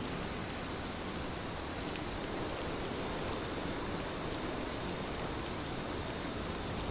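Heavy rain falling steadily: an even hiss of rain, with scattered drops ticking.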